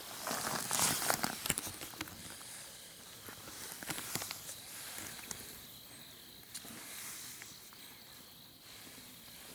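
Footsteps crunching on a forest path for the first two seconds or so, then a steady high hiss of outdoor mountain ambience.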